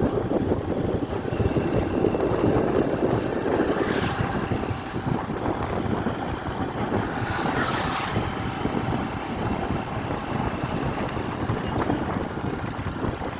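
Steady rumble of highway vehicle and road noise with wind on the microphone, and brief hissing whooshes about four and eight seconds in.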